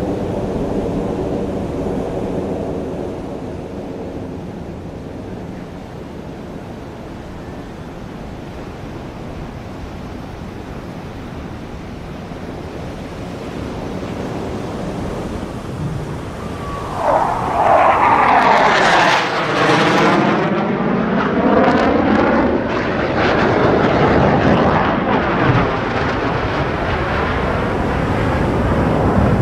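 Fighter jet flying past. Its engine noise swells sharply a little past halfway and stays loud, with a sweeping, phasing rush as it goes by.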